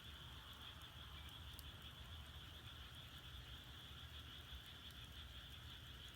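Faint, steady high-pitched chorus of calling frogs and insects, with a few soft crackles from firewood burning in an agungi firebox.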